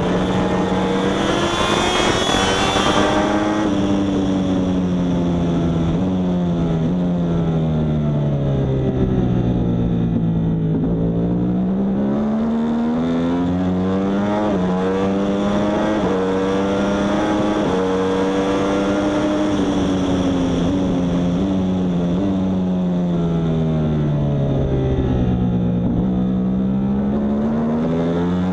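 Yamaha R1 superbike's crossplane inline-four engine running hard at racing speed, its revs repeatedly climbing and falling.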